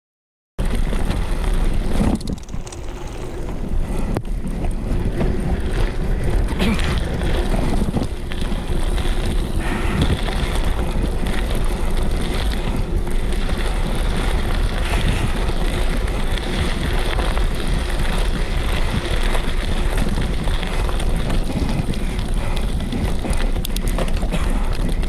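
Mountain bike riding on a dirt trail: wind buffeting the camera microphone over the rumble of tyres on rough ground, with scattered knocks and rattles from the bike. It starts abruptly after a moment of silence.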